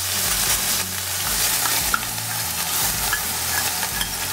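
Wet spice paste sizzling steadily as it fries in hot mustard oil in a wok. A spatula stirs it, giving a few faint ticks against the pan.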